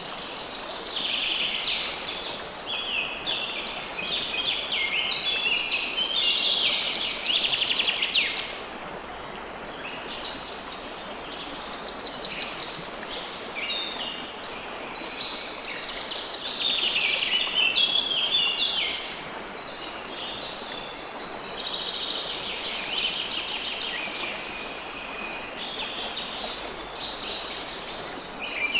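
River water flowing steadily, with many small birds chirping and trilling over it in bursts, busiest for a few seconds about a quarter of the way in and again past the middle.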